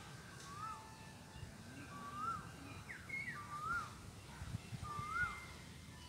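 A bird calling over and over, a short whistled note that rises and then drops, about every second and a half, with one quicker falling call in between.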